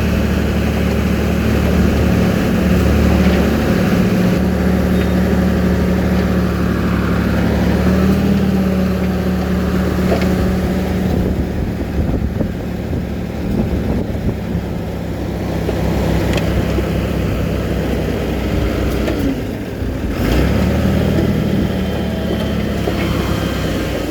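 Heavy diesel engine of earthmoving machinery running under varying load, its note stepping up and down several times, dropping back in the middle and picking up again near the end.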